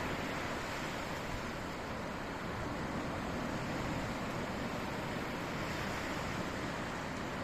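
Sea surf washing steadily, an even rushing noise with no distinct breaks.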